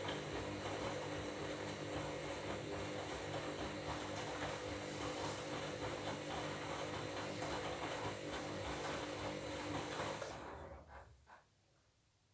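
Washing machine running, its motor turning the drum with a steady whine, then winding down and stopping about eleven seconds in.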